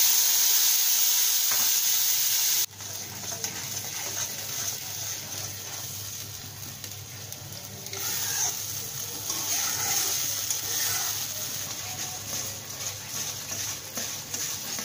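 Wet spice paste hitting hot mustard oil in a karahi with a loud sizzle, which drops sharply a little under three seconds in. After that it fries with a quieter sizzle while a steel spatula stirs and scrapes the paste around the pan.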